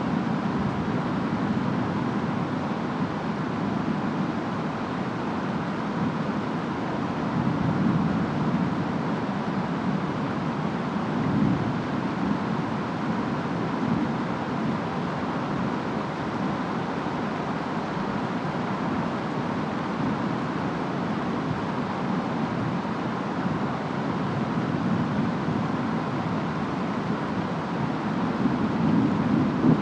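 Steady rain and wind of a storm, a continuous rushing noise that swells slightly now and then.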